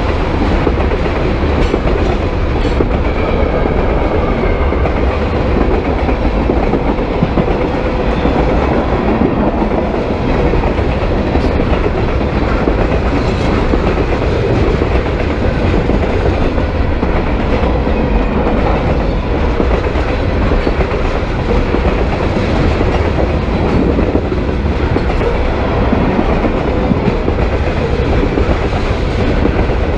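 Freight train rolling past, its steel wheels clicking over rail joints in a steady, loud rumble.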